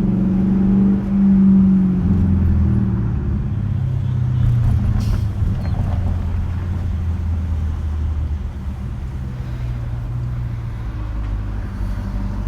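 Straight-piped 5.7-litre Hemi V8 exhaust of a 2021 Dodge Durango R/T running in town traffic. The engine note drops in pitch about two seconds in, then holds a low, steady drone.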